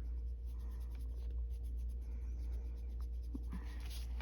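Coloured pencil scratching on paper in short, light strokes as the colour is laid down and feathered out, over a steady low hum.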